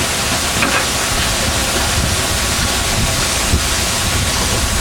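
Steady loud hiss and rumble of a fishing boat under way at sea: the engine running beneath rushing wind and water noise.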